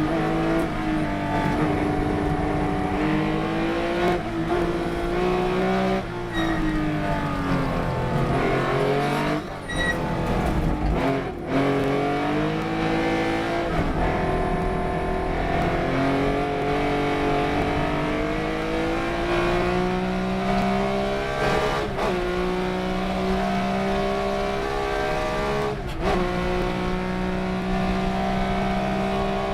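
A race car's engine under hard use: the revs climb and fall continuously as it accelerates and slows, with sudden breaks in the note at several gear changes.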